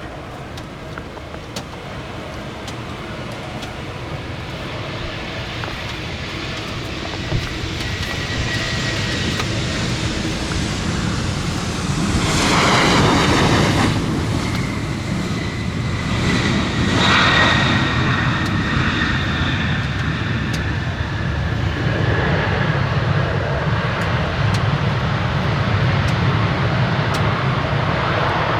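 Airliner engines on a landing approach, a wide rushing noise with a faint high whine that grows louder as the plane comes close, swelling twice around the middle.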